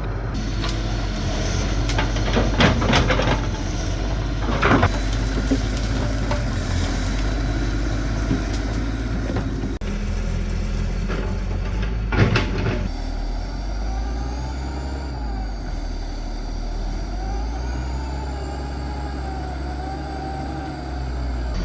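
A heavy engine running steadily, with a few loud clanks and knocks. In the second half a slowly wavering whine rises and falls above it.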